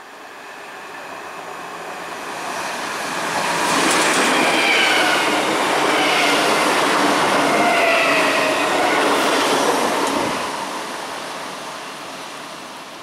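An electric multiple-unit passenger train passes along the platform without stopping. Its running noise builds over the first few seconds and stays loud for about six seconds, with high whining tones through the rail clatter, then fades as the train runs away.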